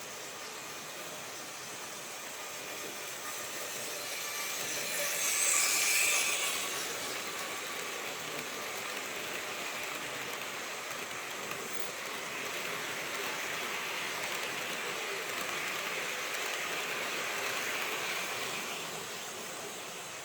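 Märklin HO-scale model train running on the track: a steady, noisy whirr and hiss. It grows to its loudest about six seconds in, then eases back and swells again between about twelve and nineteen seconds.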